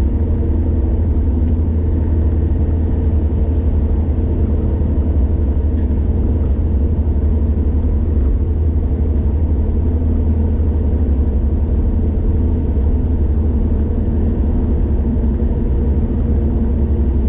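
Car driving along a highway: a steady low rumble of engine and road noise.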